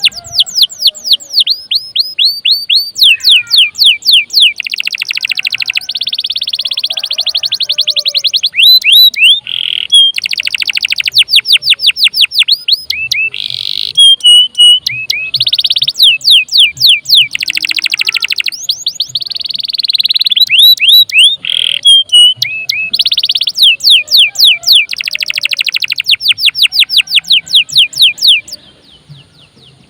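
Domestic canary singing a long, loud song: fast trills of sharply falling notes alternating with dense buzzy rolls and short held chips, breaking off near the end.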